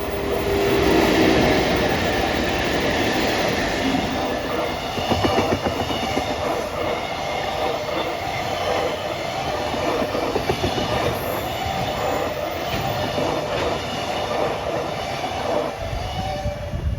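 Train running past on the rails: a loud, steady rumble with wheels clicking over rail joints and a sustained whine, dying away right at the end.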